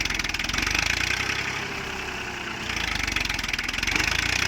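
Massey Ferguson 1035 DI tractor's three-cylinder diesel engine working hard under load as it pulls a trolley stuck in soft soil. The engine note eases briefly about two seconds in, then builds again.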